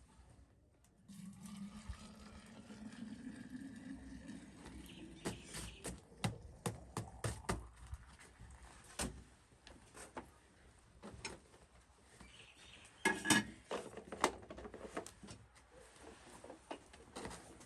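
A low steady hum, rising slightly in pitch, for the first few seconds, then a run of irregular sharp knocks and clinks, with a quick cluster of them about two-thirds of the way through.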